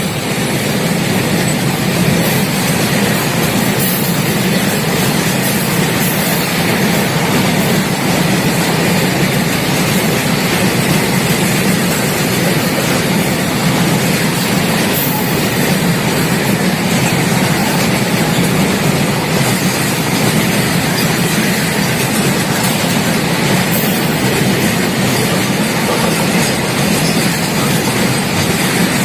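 Double-stack container freight train rolling past, its wagons' wheels running loudly and steadily on the rails.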